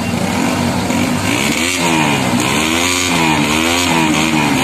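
A motor vehicle engine runs steadily, then is revved up and down over and over from about two seconds in.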